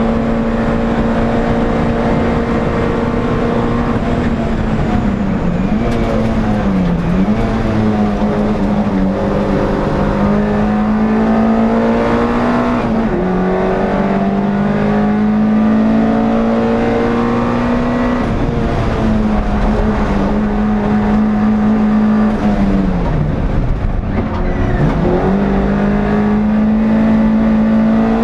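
NSU TT race car's air-cooled four-cylinder engine heard from inside the car, held at high revs for long stretches. The revs drop sharply and climb back twice about a quarter of the way in and once near the end, as the driver lifts off and changes down for corners.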